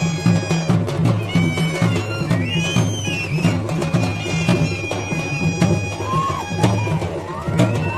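Traditional Garhwali folk music: a bagpipe playing a bending melody over a steady drum rhythm, with sharp percussion strokes.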